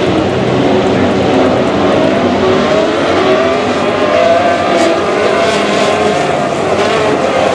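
GP3 race car engine, a naturally aspirated V6, running at high revs, its pitch climbing as it accelerates about halfway through.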